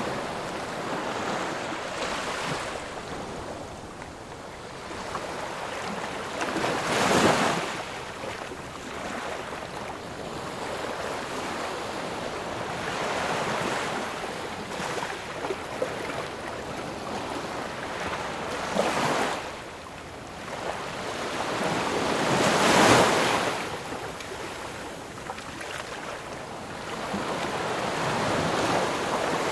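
Sea surf washing onto a shore, a steady hiss of water that swells and ebbs, with three louder breaking waves: one about a quarter of the way in and two close together past the middle.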